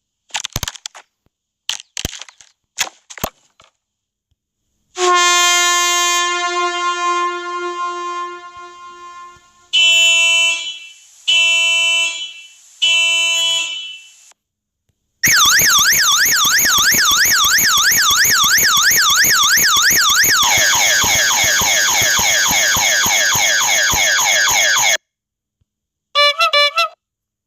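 A series of electronic annoying-noise sound effects. A few sharp clicks come first, then a long horn blast and three short honks. After that an electronic siren warbles fast up and down for about ten seconds, switching to a different sweeping pattern partway through, and there is a brief warbling beep near the end.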